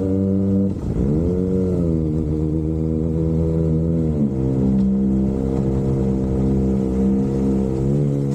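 Kawasaki Ninja ZX-25RR 249 cc inline-four running through an Austinracing aftermarket exhaust, held at steady revs. The pitch dips and climbs back about a second in, then shifts to a new steady note around four seconds in.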